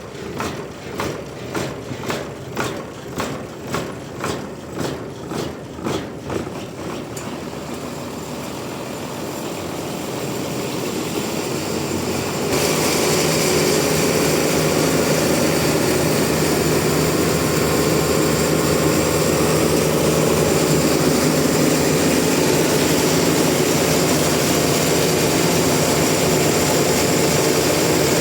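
Sawmill machinery running. For the first several seconds it pulses about two or three times a second, then fades into a steadier machine noise that grows and jumps suddenly louder about twelve seconds in.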